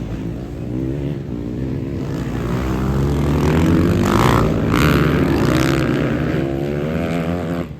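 Motocross motorcycle engines running and revving, their pitch wavering up and down, with a louder rise in the middle.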